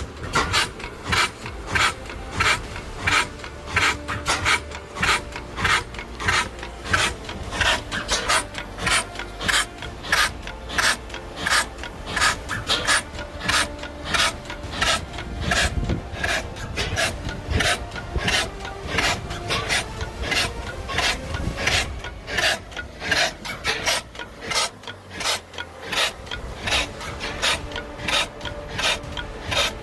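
Ronaldson Bros and Tippett 20 horsepower stationary engine running steadily, a regular rasping exhaust beat at about two pulses a second.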